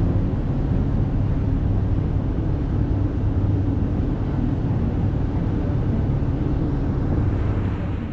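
Cruise boat underway: a steady low engine hum under a loud rushing noise, cutting off suddenly at the end.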